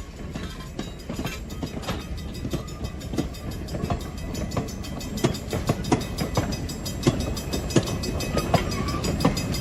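Train rolling past, its wheels clicking and knocking over the rail joints above a steady rumble, growing slowly louder.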